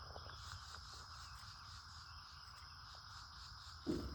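Steady chorus of crickets and other insects, a fast even pulsing over a constant high hum, above a low background rumble. A brief louder sound comes near the end.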